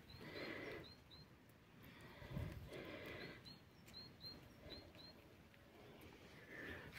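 Faint bird chirping: short high notes, mostly in pairs, repeating every second or so over a quiet background.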